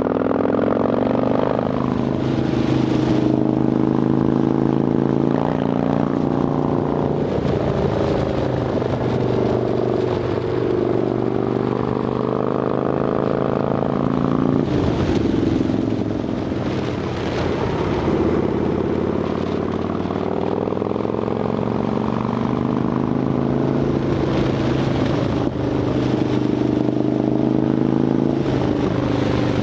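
Harley-Davidson Dyna Fat Bob's V-twin engine running through Vance & Hines Shortshots exhaust with quiet baffles, its engine speed rising and falling again and again every few seconds.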